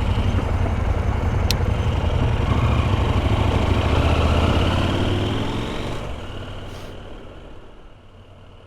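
Motorcycle engine running under way, its pitch rising as it accelerates, with a single sharp click about a second and a half in. The sound fades out over the last few seconds and then cuts off.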